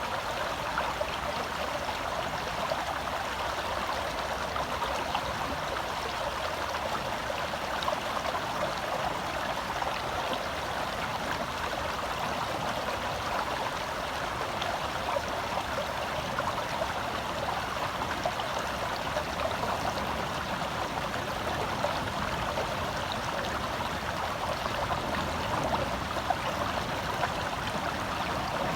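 Small forest stream flowing and babbling over rocks, a steady rushing with fine splashing and gurgling.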